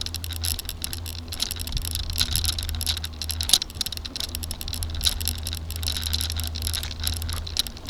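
A bicycle rolling along a path, with a fast, continuous rattling and clicking over a steady low rumble.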